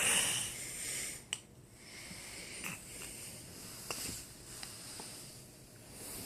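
A toddler's breathy, hissing huff that fades out in the first second, then faint room noise with a few small clicks.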